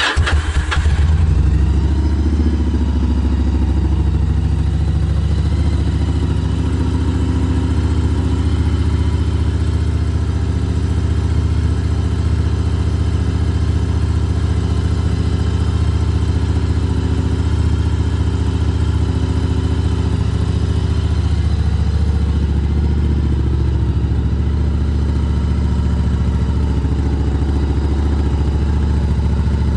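Yamaha BT1100 Bulldog's air-cooled V-twin breathing through LeoVince SBK aftermarket silencers: it fires up at the very start and settles into a loud, steady idle.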